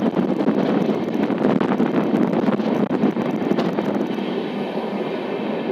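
Passenger train running at speed, heard from its open coach door: a steady rush of wind on the microphone over the train's running noise.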